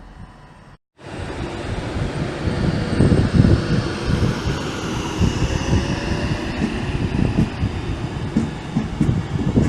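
A train running past close by, its wheels rumbling and knocking over the rail joints, with a faint high whine above. It starts abruptly about a second in, after a quieter background.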